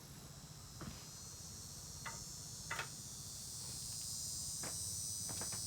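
Crickets chirring steadily in a high, even band, with a low hum underneath and a few light clicks scattered through.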